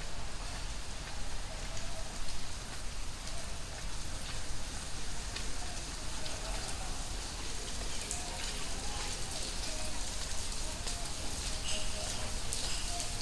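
Heavy tropical rain pouring steadily, with the close patter and sharp splashes of drops hitting nearby surfaces.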